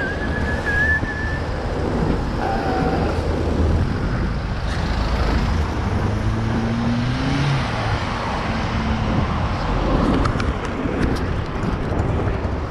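City road traffic heard from a bicycle riding among it: steady engine and tyre noise from surrounding cars and trucks. One engine rises in pitch midway, and a brief high squeal sounds near the start.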